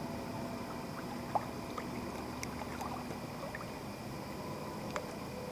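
Steady rush of river water flowing over a shallow run, with a couple of faint brief ticks.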